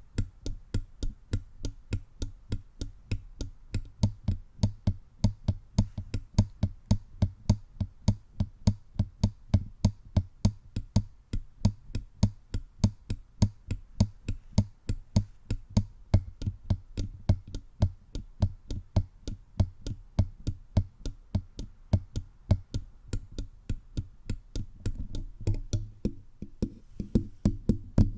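Fingertips tapping directly on a bare microphone's body in a quick, even rhythm of about four taps a second, each a close, deep thump. Near the end a rough rubbing noise joins the taps.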